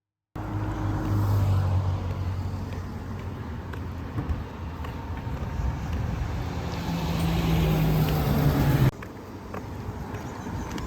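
A motor vehicle's engine running close by: a steady low hum over road and outdoor noise, which steps up in pitch later on. The sound cuts in abruptly just after the start and drops to a quieter, similar noise at a cut about nine seconds in.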